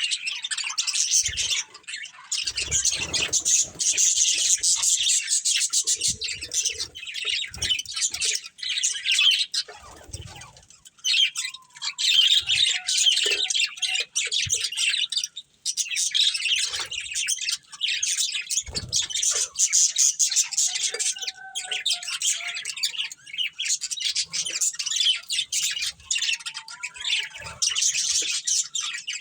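Pair of budgerigars chattering in a fast, continuous warble of chirps and squawks, with brief pauses about ten seconds in and again about fifteen seconds in.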